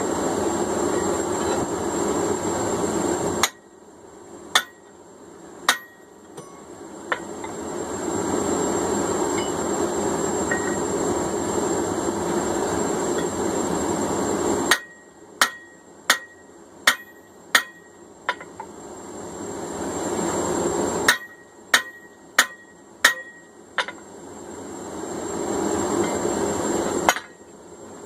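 Hammer blows on a steel drift driven through the eye of a hot, hand-forged cross peen hammer head, ringing sharply, about one or two strikes a second, in three runs. Between the runs the forge runs with a steady rushing noise that cuts off suddenly each time the strikes begin.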